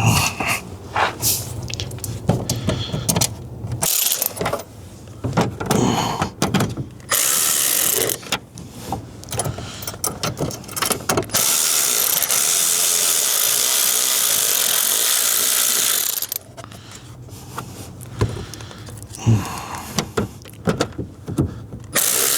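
Bolts being threaded back into a steering column with a ratchet wrench: many quick clicks and metal scrapes. About halfway through, a loud steady rushing noise runs for about five seconds, then cuts off.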